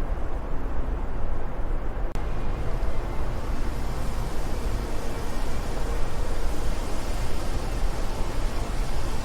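Wind blowing steadily, a dense low rumble with hiss over it. About two seconds in there is a brief click and dip, after which the sound turns more hissy.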